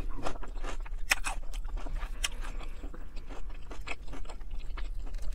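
A person chewing a mouthful of Alfredo pasta, with many short wet clicks and smacks of the mouth. About four seconds in, a fork scrapes against the plate.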